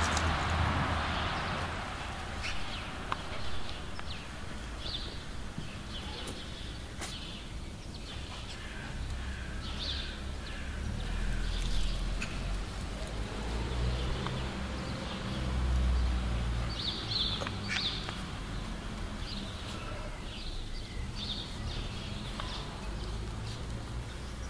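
Small birds chirping in short, scattered high calls over a low rumble that swells twice around the middle.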